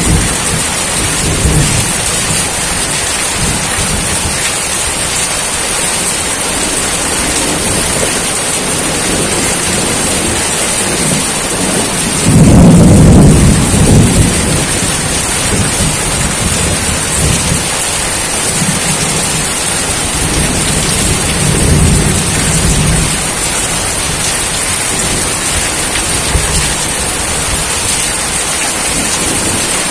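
Steady rain with a low rumble of thunder about twelve seconds in that lasts around two seconds, and softer rumbles later on.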